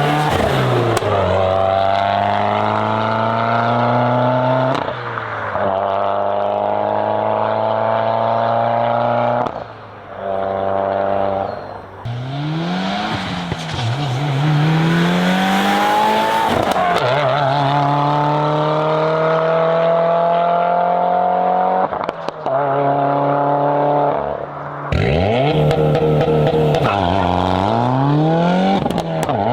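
Subaru WRX's FA20 turbocharged flat-four through a titanium cat-back exhaust, pulling hard through the gears. The engine note climbs in pitch, then drops suddenly at each of several upshifts, with brief lifts off the throttle about ten seconds in and again near the end.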